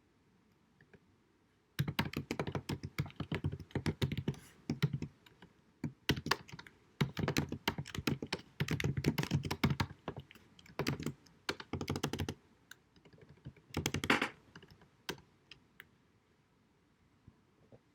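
Computer keyboard typing in fast runs of key clicks broken by short pauses, starting about two seconds in and stopping near the end, picked up with deliberately low-quality sound.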